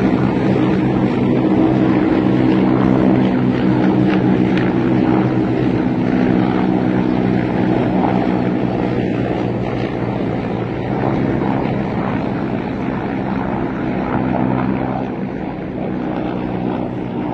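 Military helicopters flying past, their rotors and turbine engines making a steady low hum with several stacked tones that slowly gets quieter in the second half.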